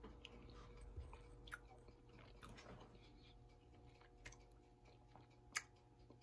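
Faint chewing of a mouthful of sloppy joe burger patty, with soft scattered mouth clicks and one sharper click about five and a half seconds in.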